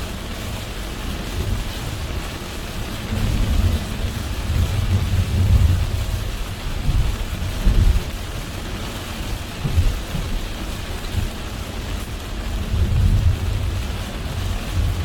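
Heavy rain on a car driving along a road: a steady hiss of rain and wet road noise. Under it runs a low rumble that swells and fades several times.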